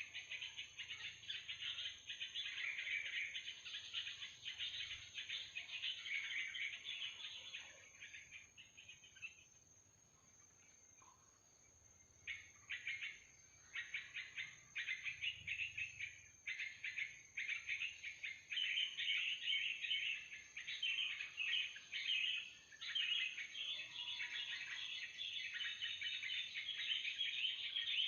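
Yellow-vented bulbuls (trucukan) chattering and calling in rapid, dense bursts, stopping for about three seconds near the middle, with a faint steady high-pitched tone underneath.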